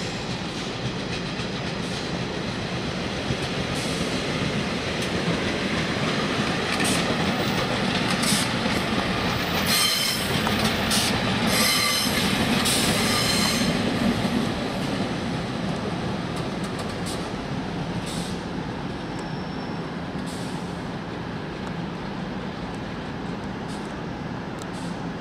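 Pacer diesel railbus running through the station, its wheels squealing and clattering over the points, loudest about halfway through.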